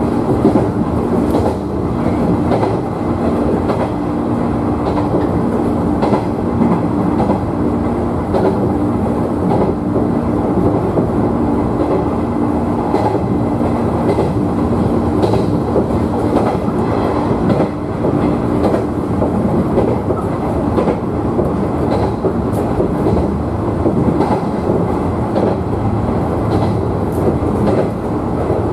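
A JR 113 series electric train running between stations, heard from inside the front car. The wheels rumble steadily on the rails with faint clicks over rail joints, and a steady low hum fades out about two-thirds of the way through.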